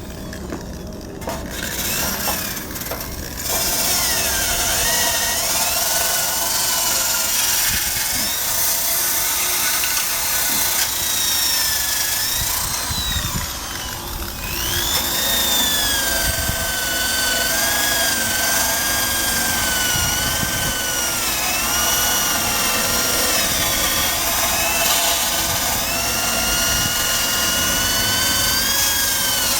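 Cordless drill spinning a wire brush against the motorcycle's metal frame to scrub off rust. The motor whine dips and recovers as the brush is pressed in, running steadily from a few seconds in.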